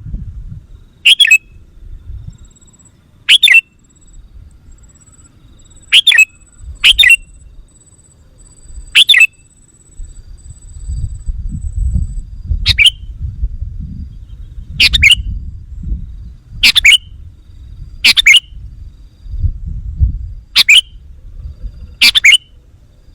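Sooty-headed bulbul (kutilang) giving short, sharp, loud calls about every two seconds, eleven in all. This is a lure call meant to provoke wild bulbuls. A low rumble runs underneath.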